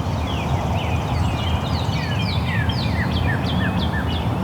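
Birds chirping, many short falling notes overlapping throughout, over a steady low rumble.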